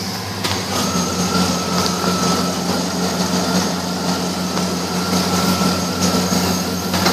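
2004 Chevrolet Avalanche's 5.3-litre V8 running steadily, with a thin steady whine coming in about a second in.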